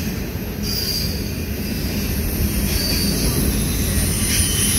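Double-stack intermodal container cars of a long freight train rolling past with a steady low rumble. Thin, high-pitched wheel squeals come and go over it.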